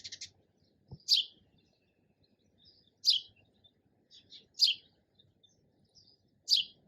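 Sparrow chirping: single sharp, high chirps every one and a half to two seconds, with softer short notes in between.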